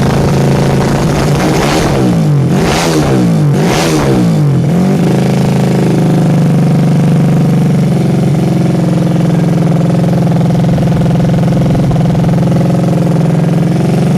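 Yamaha Vega motorcycle engine running through a JRM stainless-steel aftermarket exhaust. It is blipped up and down about four times in quick succession in the first few seconds, then settles back to a steady idle.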